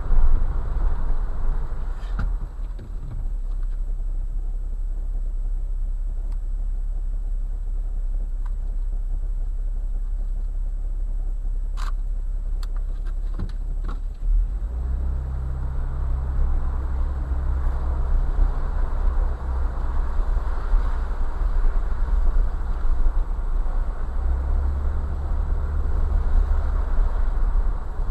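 A Jeep crawling over gravel: a steady low engine drone with tyre rumble, a few sharp clicks from stones or the body a little before halfway, and from about halfway on the engine hum grows louder.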